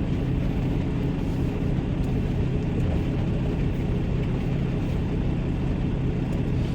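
Semi truck's diesel engine idling steadily: a constant low hum with an even hiss over it.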